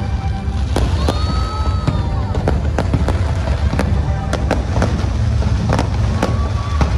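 Rapid, irregular sharp cracks and pops over a steady low rumble, with music playing and a few short whistling tones about a second in.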